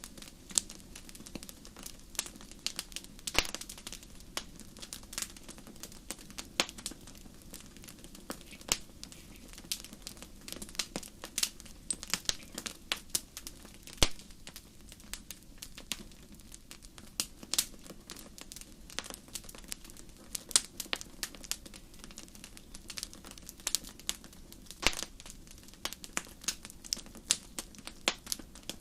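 Wood fire crackling in a fireplace: irregular sharp pops and snaps over a steady low hiss of burning, with a louder pop about halfway through.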